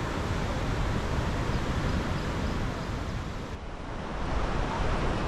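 Steady rushing outdoor noise like wind and surf, with no distinct events; the sound dips and turns duller about three and a half seconds in.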